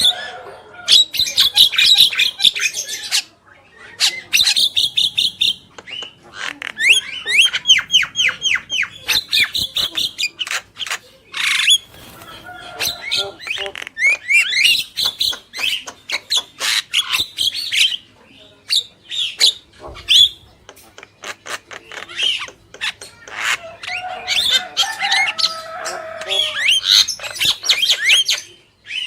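Javan mynas calling loudly: bursts of rapid, harsh chattering notes and quick whistled strokes repeated in fast series, broken by short pauses.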